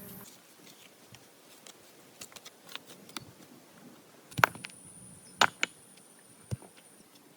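A few sharp clicks and light knocks scattered over a quiet background, the loudest about halfway through.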